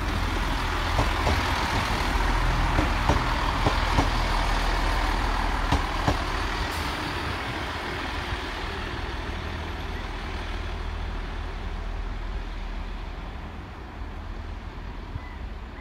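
Chiltern Railways Class 165 diesel multiple unit running past, its wheels clicking over rail joints for the first few seconds. Its diesel engine drone then fades steadily as it draws away.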